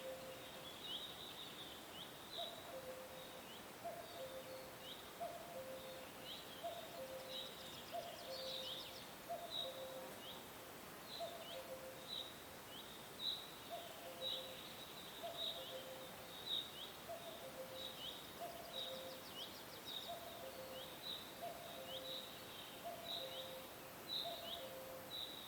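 Birds calling in a nature soundscape: short high chirps repeat steadily, about one to two a second, over a low two-note call that repeats about once a second, with a faint high trill twice.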